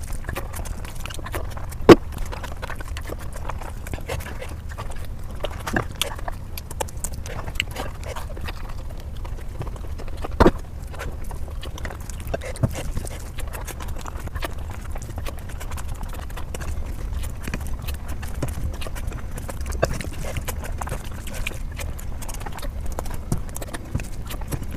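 Close-miked eating sounds: wet chewing and lip-smacking as a person eats rice and fish curry, a run of small irregular clicks over a low steady hum. Two louder sharp clicks stand out, one about two seconds in and one about ten seconds in.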